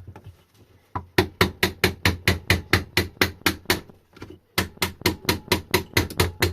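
Quick, repeated hammer blows on the cast aluminium side cover of a Sur Ron hub motor, about five strikes a second, knocking the cover loose. One run of blows starts about a second in, and a second run follows after a brief pause.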